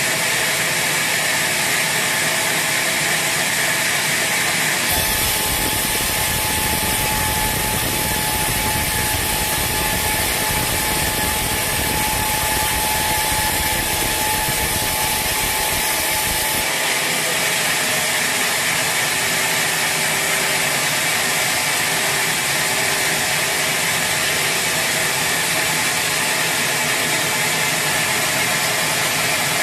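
Sawmill saw running steadily and cutting through teak wood, a dense continuous machine noise. It shifts abruptly about five seconds in, gaining a deeper rumble, and shifts back a little past halfway.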